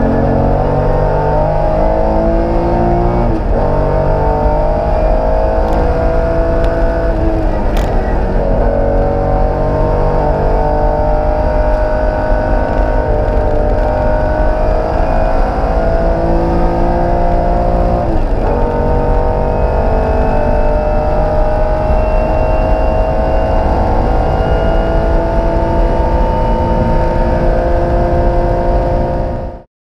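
Porsche 911 flat-six engine heard from inside the cockpit under hard acceleration. Its pitch climbs slowly through long pulls, with brief dips at gear changes about 3, 8 and 18 seconds in, and the sound cuts off abruptly at the very end.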